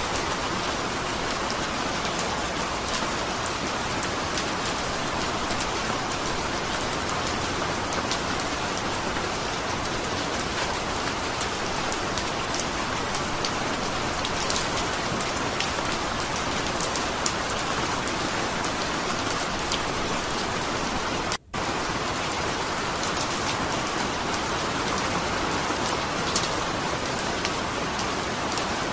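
Steady rain falling, an even hiss with scattered sharper drop ticks. The sound cuts out for a split second about two-thirds of the way in.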